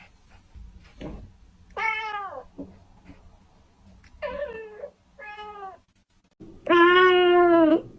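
Kitten meowing four times: three short meows that fall in pitch at the end, then a longer, louder, steadier meow near the end.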